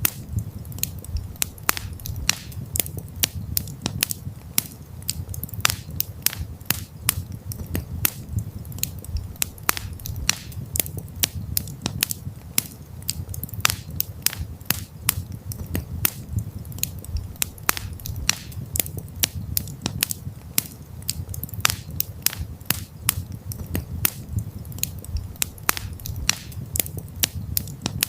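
Wood campfire crackling: frequent irregular pops and snaps over a low, steady rumble of the burning fire.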